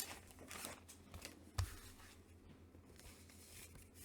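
Faint rustling and handling of comic books and paper, with a single sharp tap about one and a half seconds in.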